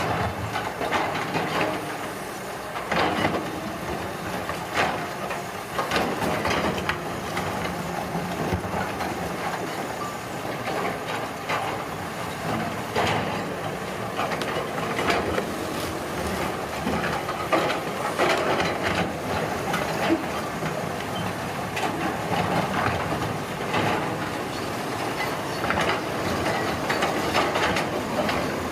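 Heavy road-construction machinery running steadily, with irregular knocks throughout.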